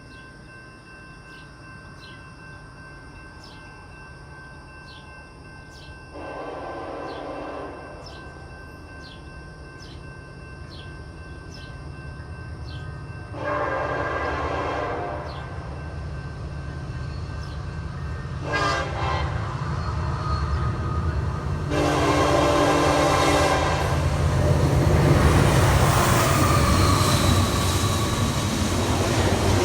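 Approaching train's locomotive horn sounding the grade-crossing signal: two long blasts, one short, then a long one, over the rumble of the train that grows steadily louder as it nears.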